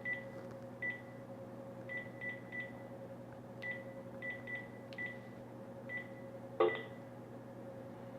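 Phone keypad beeping as a number is dialled: about a dozen short, identical beeps at uneven intervals, the last one louder, over a faint steady hum.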